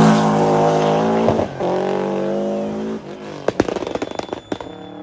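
Rally car engine held at high revs, with a brief lift about a second and a half in, like a gear change, then running on before fading. It is followed by a rapid string of sharp pops and cracks near the end.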